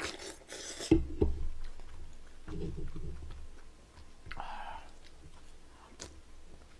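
A person chewing and biting into a mouthful of braised chicken, with wet mouth sounds and a couple of sharp clicks about a second in.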